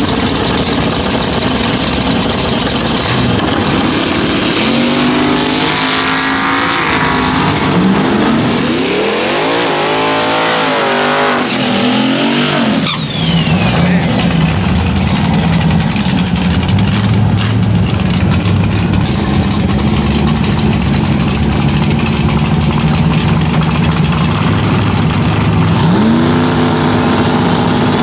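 Drag-racing engines: an engine revs up and down several times in the middle, then runs steadily, with another rise in pitch near the end.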